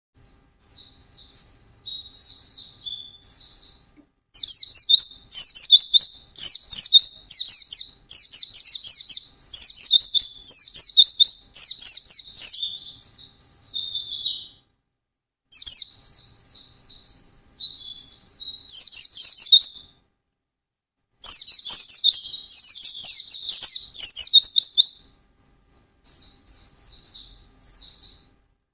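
White-eye (pleci) singing a rapid, high twittering song in long phrases, broken by a few brief pauses.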